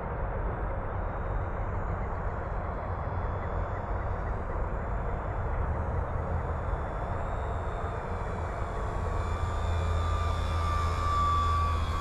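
Electric motor and propeller of an FMS Cessna 182 RC plane (1.5 m wingspan) on a slow flyby with full flaps, over a steady low rumble. About nine seconds in, the motor's whine comes up as a steady tone and grows louder toward the end as the plane passes closer.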